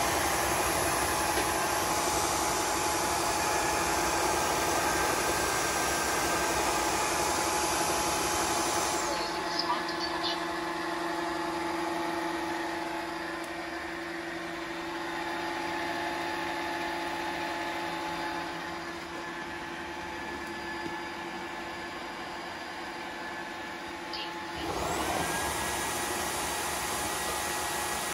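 Roidmi Neo cordless wet-dry vacuum running its self-cleaning cycle in the base, its motor and brush roller running with a steady rushing noise. About nine seconds in it drops to a quieter, lower hum, and near the end it speeds back up with a short rising whine.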